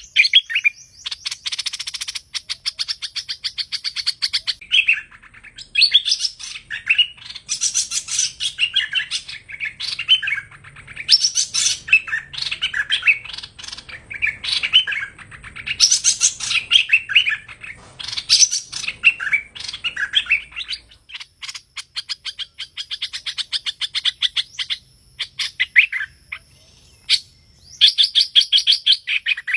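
A hoành hoạch bird singing the 'thơm' song used as a trapping lure: repeated quick phrases of high whistled and chattering notes, broken by fast buzzy trills near the start and in the last third.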